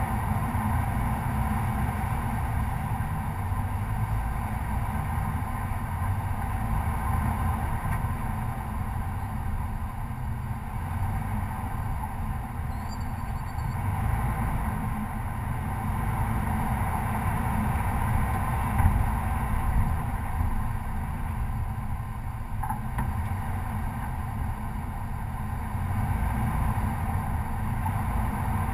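Chevrolet Colorado pickup truck driving along a dirt trail: a steady low rumble of engine and tyres, with a couple of brief knocks about two-thirds of the way through.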